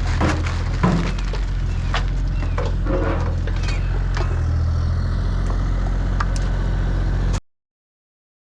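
Digging machine's engine running steadily, with scrapes and knocks from digging in stony ground in the first few seconds. The sound cuts out suddenly for about a second near the end.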